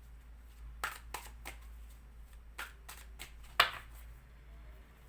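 Tarot cards being handled and laid down: a few short rustles and snaps, the loudest about three and a half seconds in.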